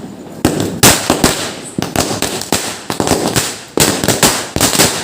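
A 100-wala string of small firecrackers going off, starting about half a second in: a fast, uneven run of sharp bangs.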